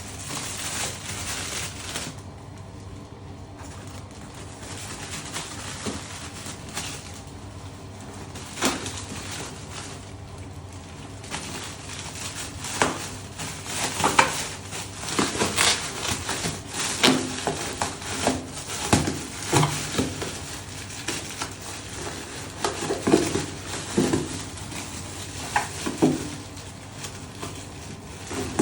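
Close-up handling of a leather bag and small tools during a repair: soft rubbing at first, then from about halfway many sharp clicks and light taps.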